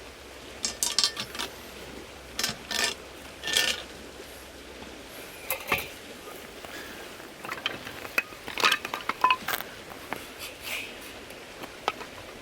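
Metal items being handled, clinking and clattering in short irregular bursts, a few of them ringing briefly.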